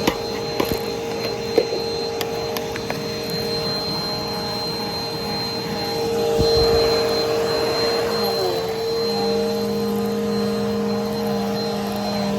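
Brushroll vacuum cleaner running steadily, its motor giving a constant hum with a high whine, with a few sharp clicks in the first few seconds. About eight seconds in, the motor's pitch wavers and settles into a lower-pitched tone.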